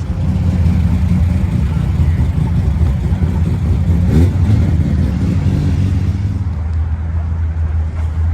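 A car engine running close by: a loud, steady low rumble.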